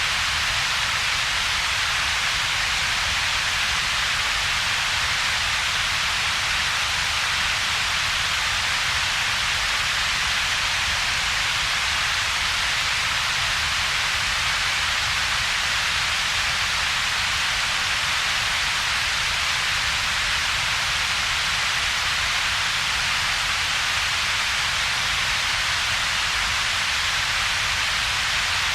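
Synthetic double-peaked noise, steady and unchanging: a strong hiss centred around two to four kilohertz over a weaker low rumble, with a gap between the two.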